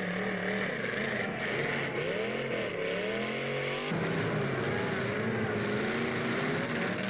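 Demolition derby cars' engines revving and running, their pitch rising and falling several times over a steady noisy background; the sound changes abruptly about four seconds in.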